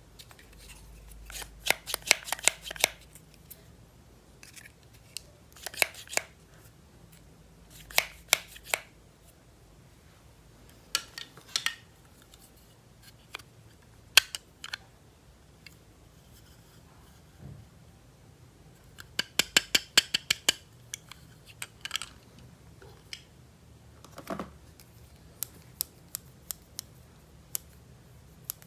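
Scissors cutting open toy packaging: short runs of quick, sharp snips and clicks, separated by pauses of a second or more.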